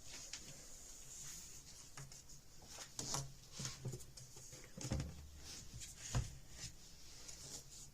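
Faint soft knocks and clicks, a few of them, the sharpest about six seconds in, over a light hiss.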